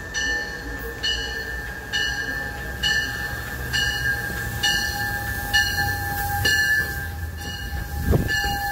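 MARC commuter train rolling into the station with a low rumble that builds, while a bell rings steadily about once a second, roughly ten strokes. A steady whine runs underneath, and a low thump comes near the end.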